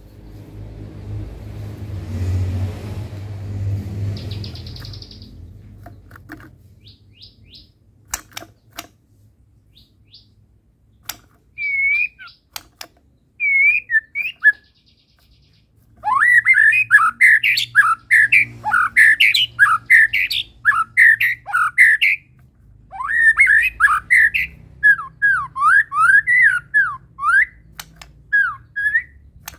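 White-rumped shama (murai batu) singing: scattered whistled notes, then from about halfway through a loud, rapid run of varied whistles and chirps. A low rumbling noise and a few clicks come before the song.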